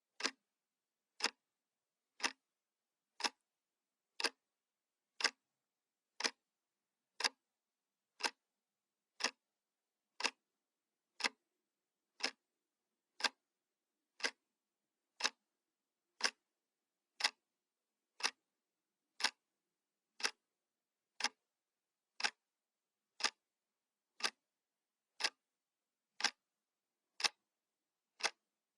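Analog clock ticking steadily, one sharp tick every second.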